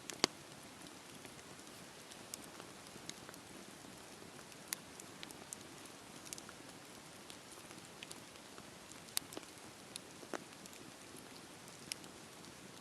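Campfire burning with a soft steady hiss and irregular sharp crackles and pops of the wood, the loudest about a quarter second in and a dozen or so smaller ones scattered through.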